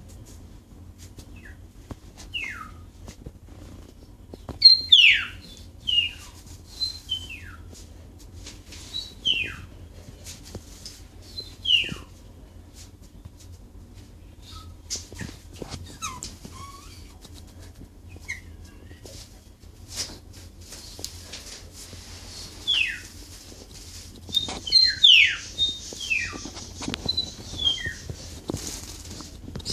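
Pet bulbul calling: short, sharp whistled notes that sweep down in pitch, given singly or in quick runs, busiest about five seconds in and again around twenty-five seconds.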